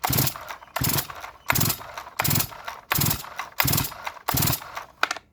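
Ported Farmertec G366 chainsaw being pull-started on choke: about seven quick yanks of the starter cord in a row, each a short cranking rasp, without the engine catching.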